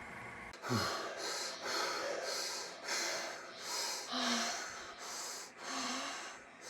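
A person breathing heavily, quick noisy in-and-out breaths about twice a second, with a few small grunts.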